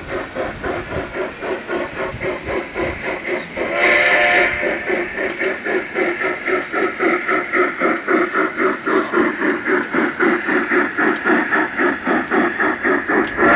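G-scale model steam locomotive running, its chuff sound beating steadily at about three to four chuffs a second, with a short whistle blast about four seconds in.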